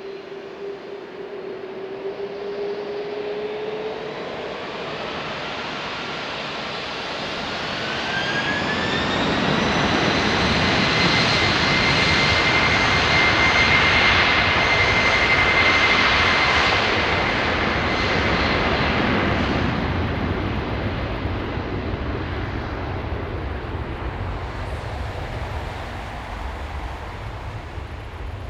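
Boeing 747-400's four jet engines spooling up to takeoff thrust: a whine rising in pitch over the first ten seconds, then loud, steady engine noise that peaks midway and fades slowly over the last ten seconds.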